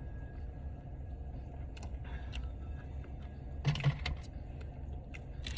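Steady low rumble with scattered faint clicks, and a brief low murmur about four seconds in.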